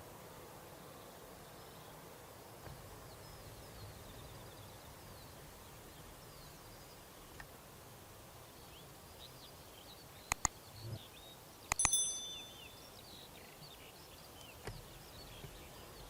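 Quiet outdoor ambience with faint bird chirps. About ten seconds in come two sharp clicks, then a short metallic clink that rings briefly.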